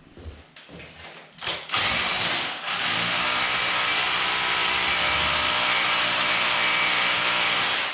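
Electric rotary hammer drill running into hard, old concrete: a short burst about two seconds in, then a steady run until it stops just before the end.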